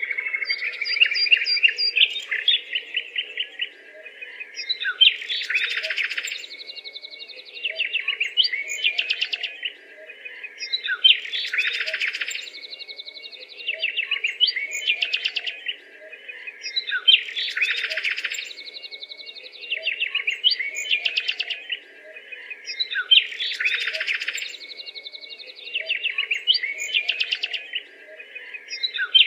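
Songbird chirping and trilling in rapid, busy phrases, the same sequence of calls coming round again about every six seconds, over a faint steady low hum.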